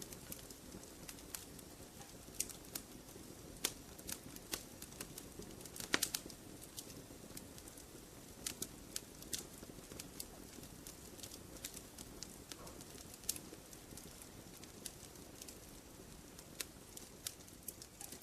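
Wood campfire crackling: irregular sharp pops and snaps over a low steady hiss of burning, with a quick cluster of louder pops about six seconds in.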